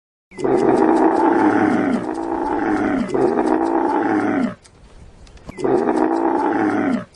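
A large animal giving long, loud, drawn-out calls: three in close succession, then one more after a short pause, with the pitch falling at the end of the later calls.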